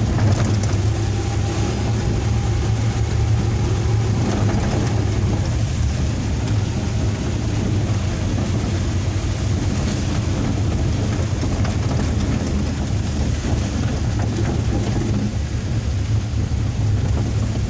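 Suzuki Carry Futura pickup driving, heard from inside the cabin: a steady engine drone mixed with an even hiss of heavy rain and road noise.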